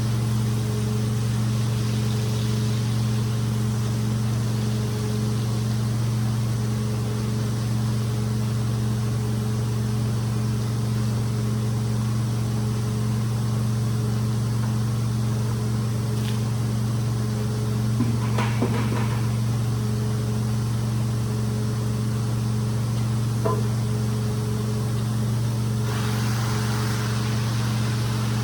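A rug-cleaning machine runs steadily with a constant motor hum. A brief rattle comes about two-thirds of the way through, and a hiss rises near the end.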